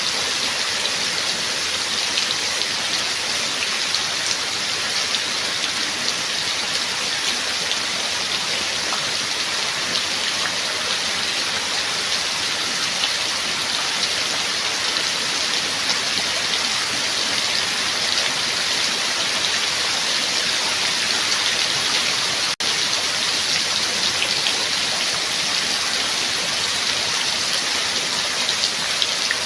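Steady rain falling: a dense, even hiss of drops with fine patter. It cuts out for an instant about two-thirds of the way through.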